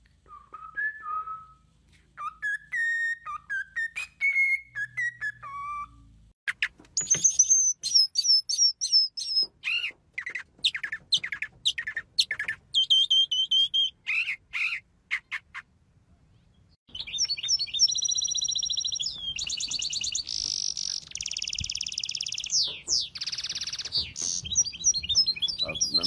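Songbirds singing in a series of different songs: slow whistled phrases first, then quick high chirps and falling notes, and after a short gap, fast dense trills.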